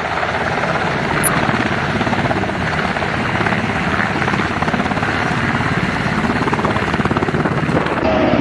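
Firefighting helicopter running close by, its rotor blades beating in a fast, steady chop over turbine noise. A brief high chirp comes about a second in.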